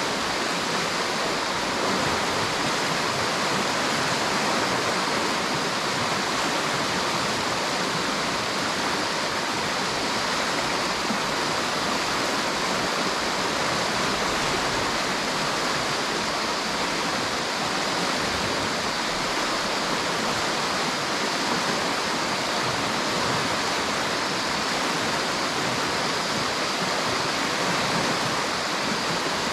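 River water rushing, a steady even roar of flowing water.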